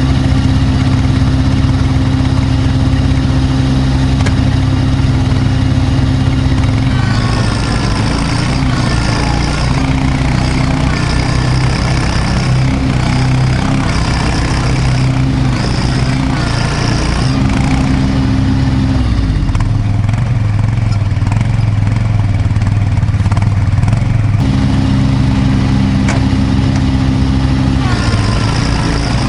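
Kubota B2650 compact tractor's diesel engine running steadily and loudly, with a whine that repeatedly rises and falls in pitch from about seven seconds in to about eighteen seconds, and again near the end.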